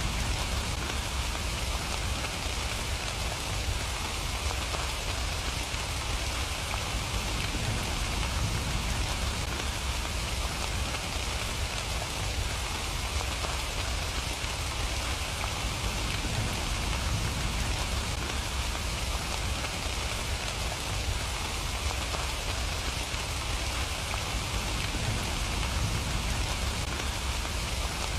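Steady rain falling and pattering on surfaces, an even hiss with a low rumble underneath, unchanging throughout.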